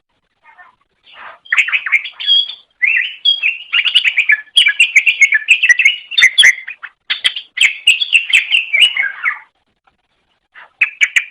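Greater green leafbird (cucak ijo) singing a fast, varied run of chirps and warbled phrases. The song starts after a short gap about a second in and breaks off briefly near the end before resuming.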